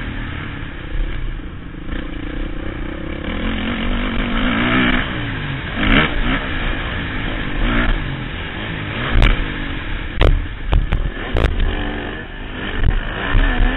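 Motocross bike engine revving up and down as it is ridden around a dirt track, heard from a helmet-mounted camera with wind noise. Several sharp knocks about two thirds of the way through.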